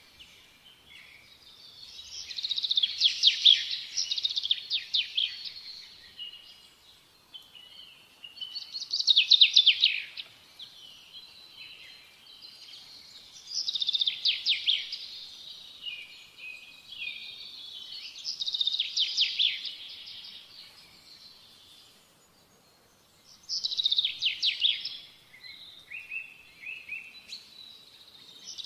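A songbird singing: phrases of rapid, high chirping and trilling about every four to five seconds, with quieter twittering between them.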